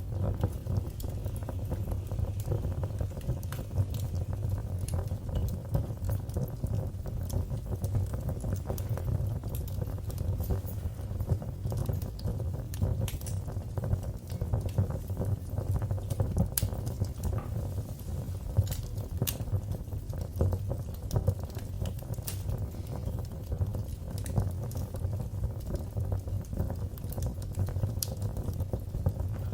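Fire in a fireplace crackling, with frequent sharp pops and snaps over a steady low rumble of the flames.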